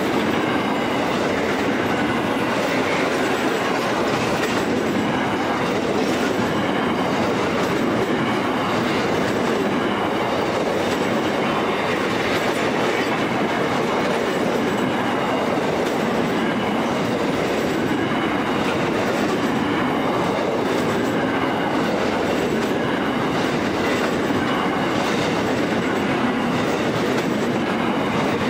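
Empty container wagons of a long freight train rolling past close by: a steady wheel-on-rail rumble and clatter, with a faint high ringing from the wheels.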